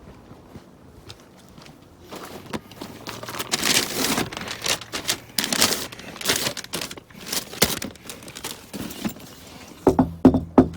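Crinkly rustling of a takeaway bag being handled, in repeated bursts, with a few thumps near the end.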